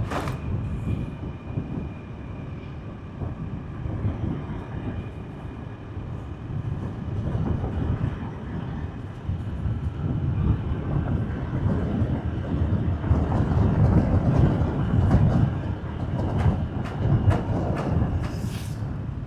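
Road noise of a motorbike being ridden: a low, uneven rumble that grows louder about halfway through, with a faint steady whine above it and a couple of short clicks.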